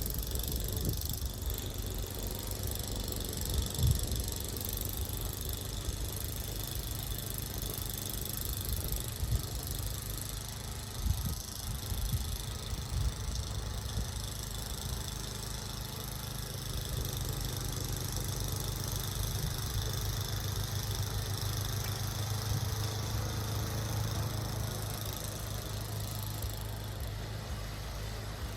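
A motor engine running steadily, with a few knocks and rattles over it.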